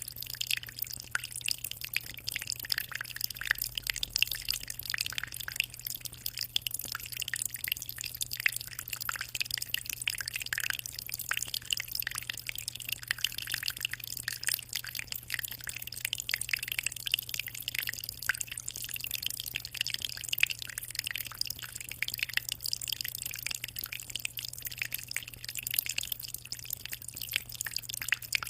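Water trickling and splashing continuously into a 60-litre aquarium, a dense, even patter of small drips and splashes, with a low steady hum underneath.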